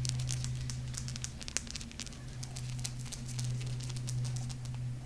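Tapping and scratching on golden crystal stones: a quick, dense run of crisp little ticks that thins out after about three seconds, over a steady low hum.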